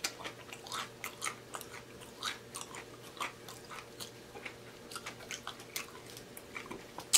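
A person chewing food with the mouth, making irregular wet clicks and smacks, with a sharper smack just before the end.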